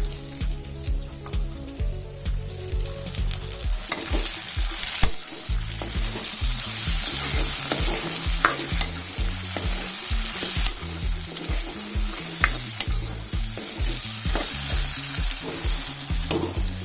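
Pork, potatoes, tomatoes and onions sizzling in a kadai, cooked without added oil, while a steel ladle stirs them. The ladle gives repeated sharp scrapes and knocks against the pan.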